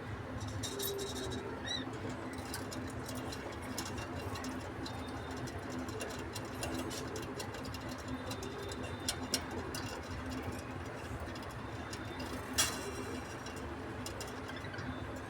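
Pet lovebirds chirping and chattering in short, sharp high calls and clicks, with one louder click about three-quarters of the way through, over a steady low hum.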